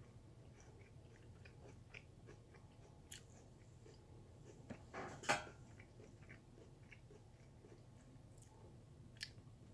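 Quiet, crisp chewing of raw sweet potato: faint crunching from close up, with one louder sharp sound about halfway through.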